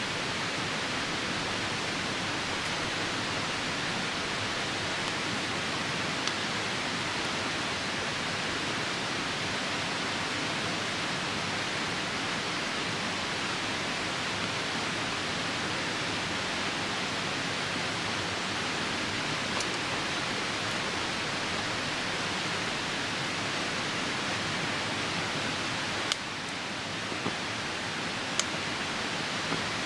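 Steady rushing of a nearby river and falling rain, with a handful of sharp pops from a wood campfire, most of them near the end.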